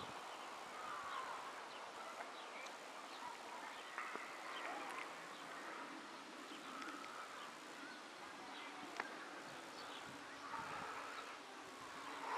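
Faint birds chirping in short, scattered calls over a low steady hiss of outdoor ambience, with two sharp clicks about four and nine seconds in.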